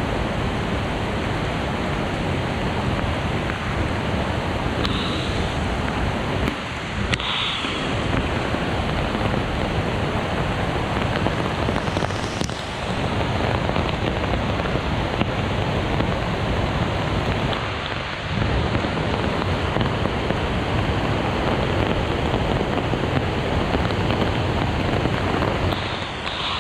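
Heavy rain falling steadily, a dense, even hiss with a few brief dips.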